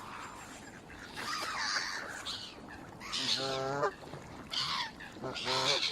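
Birds calling in a flurry: scattered harsh chatter, then two drawn-out pitched calls of about half a second each, around three and five seconds in.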